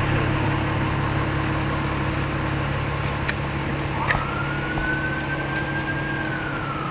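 A vehicle engine idling with a steady low hum. About four seconds in, an emergency siren starts, rises quickly to a high tone, holds it, then slowly falls in a long wail.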